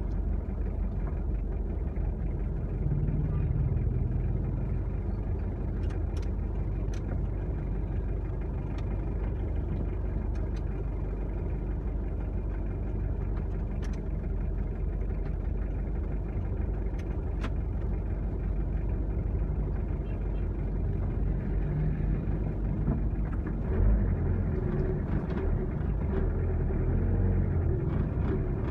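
A motor vehicle on the move: a steady low engine and road rumble, with a few light clicks scattered through it.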